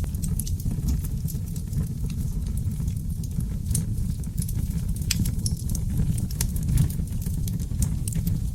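Wood fire burning in a fireplace: seasoned oak logs crackling and popping, with frequent sharp irregular cracks over a steady low roar of the flames.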